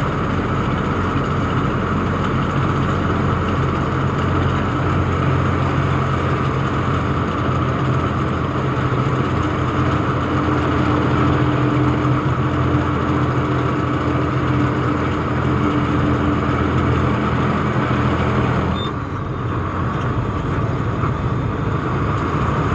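Tata truck's diesel engine running with road noise, heard inside the cab. About three-quarters of the way through the noise eases and thins out.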